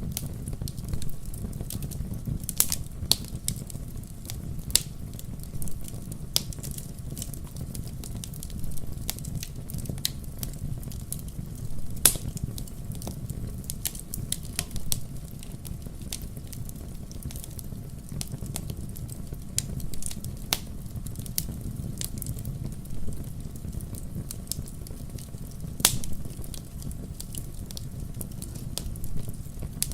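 Wood fire burning in a fireplace: a low steady rumble of flames with irregular sharp crackles and pops, a few louder snaps about 12 and 26 seconds in.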